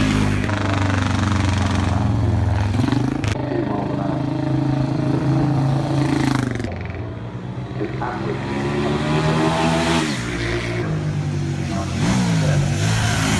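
A competition vehicle's engine revving hard, its pitch climbing and falling repeatedly through gear changes and lifts. There is a drop around the middle and a quick dip and climb near the end.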